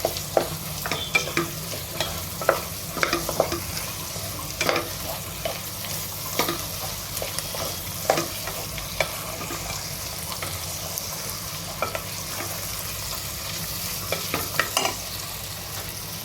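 Cut potatoes frying in oil with sliced onions in a pan, sizzling steadily, with irregular clicks and scrapes of a utensil stirring against the pan, over a low steady hum.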